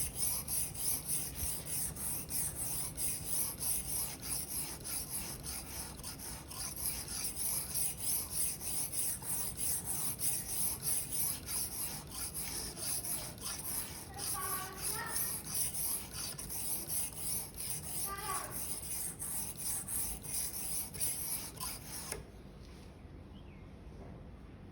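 Blade of a Victorinox paring knife scraped in rapid repeated strokes across an 800-grit whetstone, a steady gritty rasping while the edge is worked to raise a burr. The strokes stop abruptly near the end.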